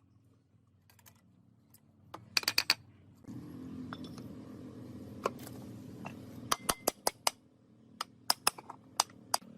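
Metal parts and tools being handled on a bench: sharp clicks and taps, several in quick clusters. A steady low hum comes in suddenly about three seconds in.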